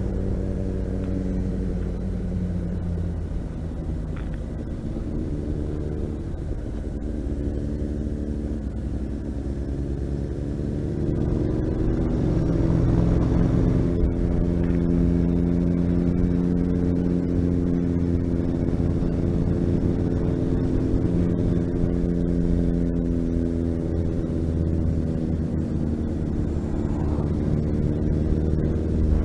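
Motorcycle engine running under way, with wind rumble on the microphone. The engine note drops, then climbs as it accelerates about a third of the way in, and holds steady and louder after that.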